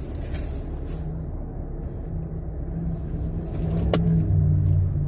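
Jeep Wrangler's engine and road rumble heard from inside the cabin while driving slowly. The engine hum grows louder about four seconds in, just after a single sharp click.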